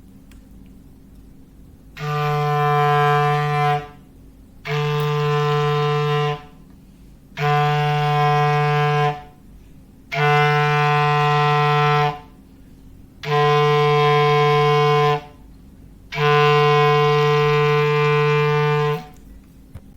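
Clarinet holding one low note in foghorn-like blasts: six steady blasts of about two seconds each, with pauses of about a second between them.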